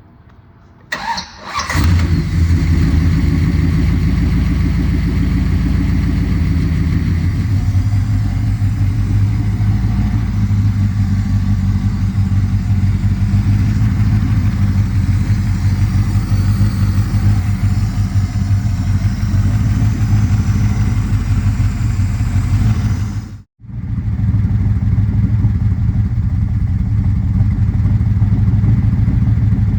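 Built 392 Hemi V8 with dual four-barrel carburetors, headers and a dual exhaust cold-started: a brief crank about a second in, then it catches and settles into a steady idle. The idle note shifts lower about seven seconds in, and the sound cuts out for a moment about three-quarters of the way through.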